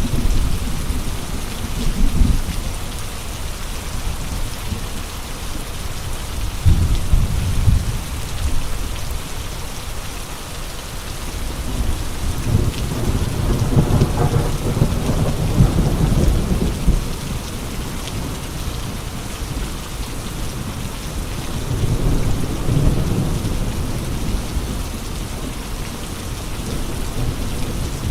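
Steady heavy rain with gusty wind, and deep low rumbles that swell and fade about four times, the longest near the middle.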